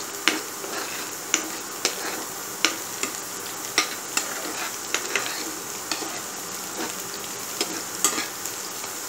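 Chopped garlic, ginger and onion sizzling in hot mustard oil in a kadhai while a spoon stirs them, knocking and scraping against the pan in irregular clicks about once or twice a second.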